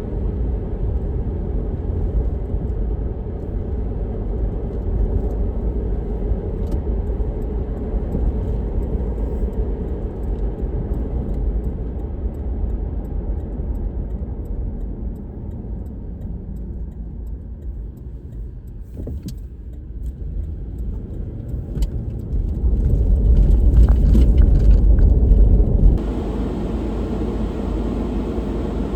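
A car driving, with a steady low road and engine rumble, growing louder for a few seconds near the end before the sound changes abruptly.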